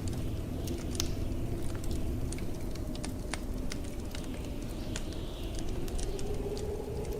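Fireplace crackling with frequent sharp pops over the steady low rush of blizzard wind, which swells into a low howl near the end.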